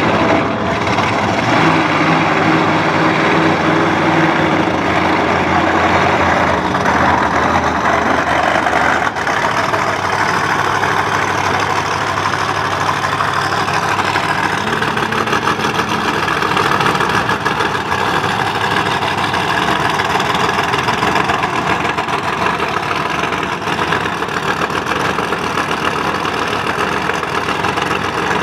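Monster truck engines idling and running steadily.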